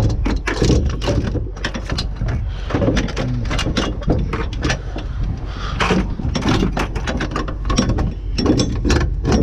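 Scrap items clanking and clattering as they are handled and shifted about in a dumpster, a quick run of sharp knocks throughout. Wind rumbles steadily on the microphone underneath.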